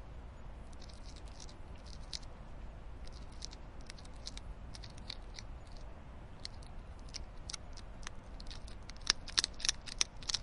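Hedgehog foraging and chewing in grass: many irregular sharp clicks and crackles, thickest and loudest about nine to ten seconds in, over a low steady rumble.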